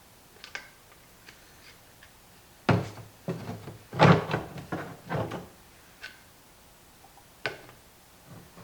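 Knocks and clatters of hand tools working on the aluminum rivets of a plastic compost tumbler's lid ring, with a burst of several sharp knocks about three to five seconds in and a few lighter clicks around them.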